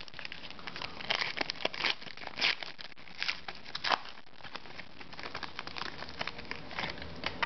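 Foil wrapper of a hockey card pack crinkling and tearing as it is opened by hand, in a run of irregular crackles and rustles.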